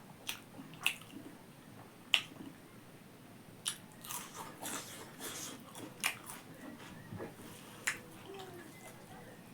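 Close-up eating sounds of someone biting and chewing pork, with sharp crunchy snaps at irregular moments and softer wet chewing in between.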